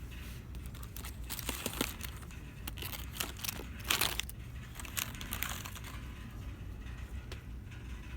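Crinkling and rustling of plastic packaging as items are handled, in irregular bursts with the loudest crackle about four seconds in, over a steady low hum.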